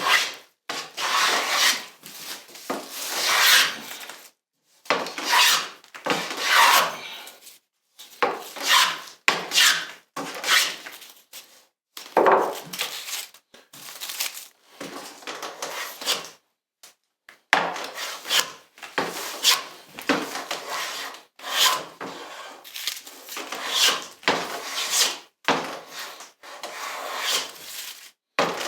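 Hand tool worked along a wooden frame moulding in repeated rasping strokes, each lasting one to two seconds, with short pauses between them.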